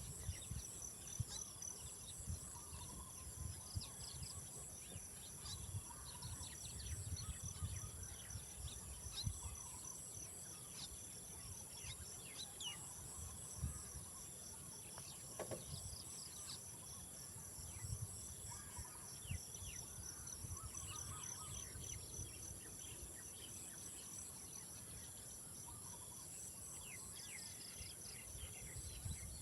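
Outdoor ambience of insects trilling steadily, one with a regular pulsing chirr, with scattered short bird chirps over a low, uneven rumble.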